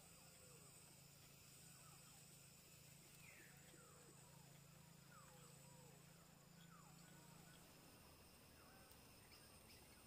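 Very faint forest ambience: a series of short downward-sliding bird notes over a steady low hum that stops about eight seconds in, with thin high steady tones above.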